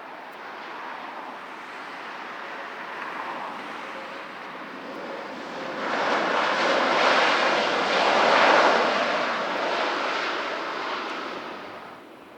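Jet airliner's engines passing close by: a rushing roar that builds, is loudest about two-thirds of the way through, then drops away near the end.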